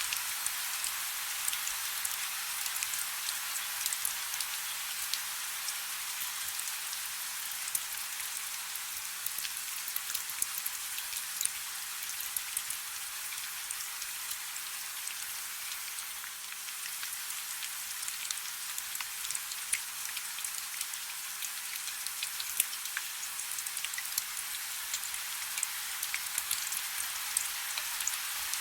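Steady soft rain: an even hiss with many small drop ticks scattered through it.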